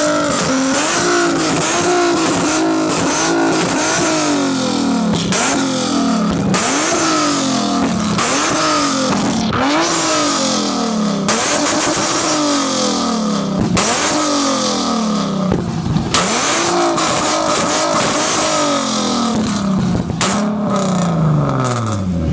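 A car's V6 engine revved hard again and again, about one rev every one and a half to two seconds, each climbing fast and falling back, with sharp exhaust pops and crackles as the revs drop.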